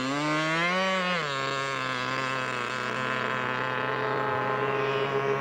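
Model seaplane engine running. Its pitch climbs for about a second, drops back and then holds steady.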